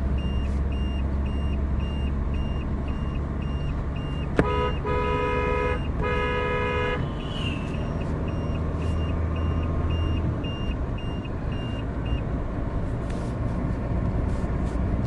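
Mahindra Scorpio S5 diesel SUV driving, its engine and road noise a steady drone. A high beep repeats about twice a second for most of the time, and a vehicle horn sounds twice, a longer blast then a shorter one, a few seconds in.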